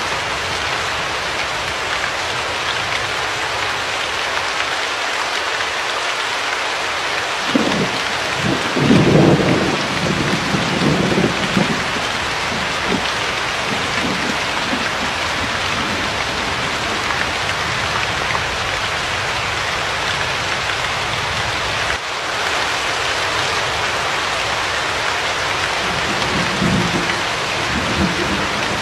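Steady rain falling, with a low rumble of thunder rolling through about eight to twelve seconds in and a fainter rumble near the end.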